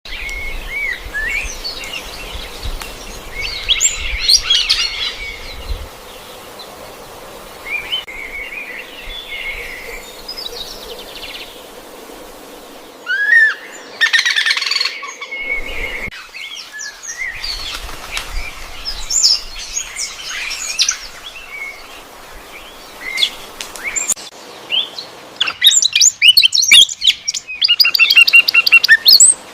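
Birds chirping and calling in scattered bursts of short, high, sliding notes, with a quick run of repeated notes near the end.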